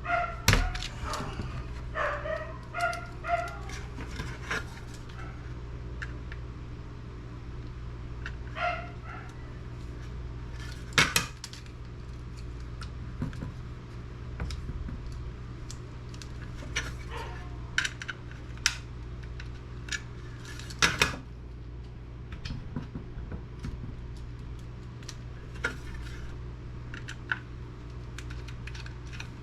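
Scattered metallic clicks and clinks of hand tools and driver bits on a desktop computer's steel case and parts during disassembly, with the two loudest sharp clicks about eleven and twenty-one seconds in. A dog yips a few times in the first few seconds.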